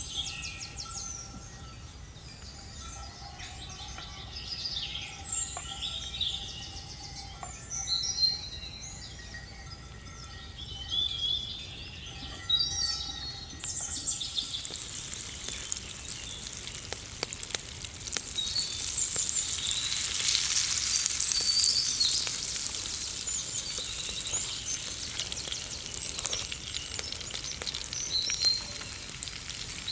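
Birds chirping and calling, then a little after halfway food starts sizzling suddenly in hot oil in a pan and keeps frying steadily while the birds go on.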